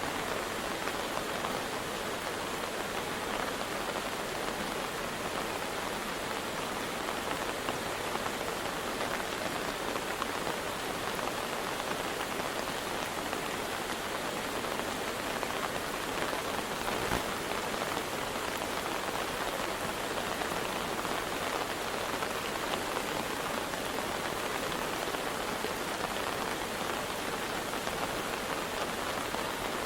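Steady, even rush of water from heavy rain and a swollen river, with a single short click about seventeen seconds in.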